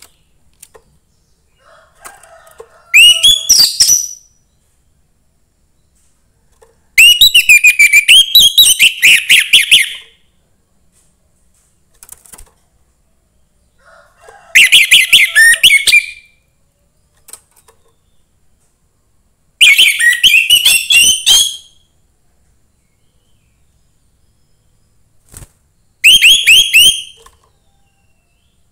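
Young orange-headed thrush singing in five loud bursts of rapid, high, repeated whistled notes, a few seconds apart, two of them opening with a softer, lower twitter.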